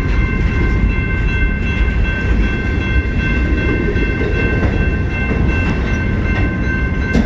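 CN freight train's cars rolling past with a loud, steady low rumble and clickety-clack, with a steady high-pitched ringing tone over it.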